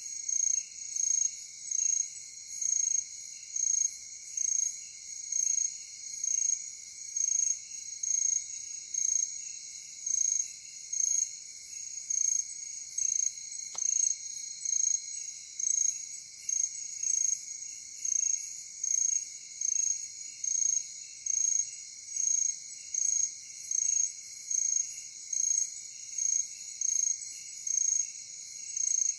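Night chorus of crickets and other insects: a steady high trill with a regular pulsing chirp, under two chirps a second, and one faint click about halfway through.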